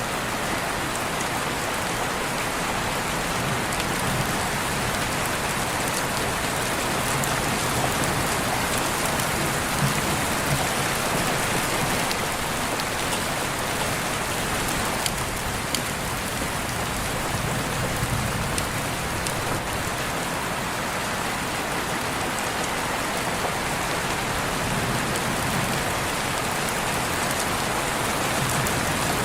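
Steady rain falling, a dense even hiss with scattered drops pattering.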